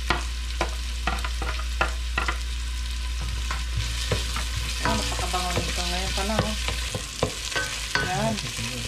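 Chopped garlic and ginger sizzling in hot oil in a stainless steel pot, stirred with a wooden spoon that knocks against the pot about every half second in the first few seconds. Some wavering pitched sounds come in over the sizzle in the second half.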